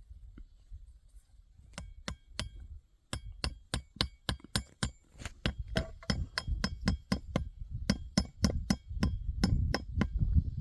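Hammer driving nails, a long run of quick, evenly spaced strikes with a metallic ring, starting about two seconds in at roughly three blows a second.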